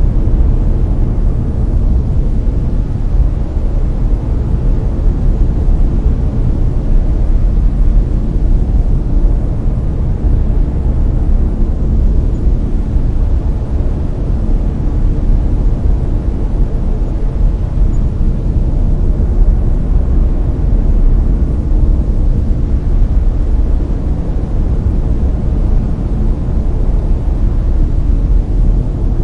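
Layered brown noise: a steady, deep hiss with most of its weight in the bass, fading toward the treble.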